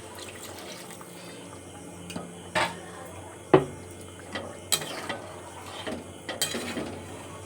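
Metal utensils knocking and scraping against a cooking pot while the chicken curry is stirred: a handful of separate sharp clinks, the loudest about three and a half seconds in, over a steady low hum.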